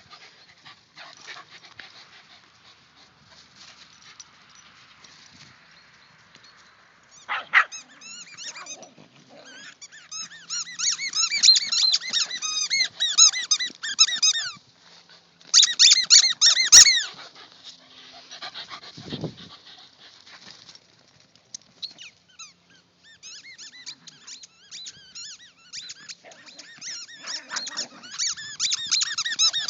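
A dog chewing a squeaky toy, squeaking it rapidly over and over in several bursts: a long run around the middle, a short loud one just after, and another towards the end.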